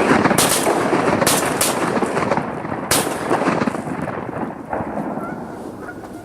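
Volley of shotgun shots fired at incoming Canada geese: four sharp blasts in the first three seconds, spaced unevenly as several hunters shoot. Geese honk again near the end.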